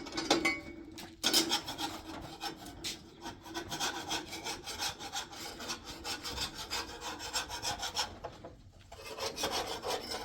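Repeated rasping, rubbing strokes that run on steadily, with a short pause about eight seconds in.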